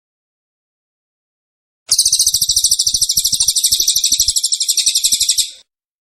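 A small songbird singing one fast, even, high trill lasting about three and a half seconds, starting about two seconds in after complete silence.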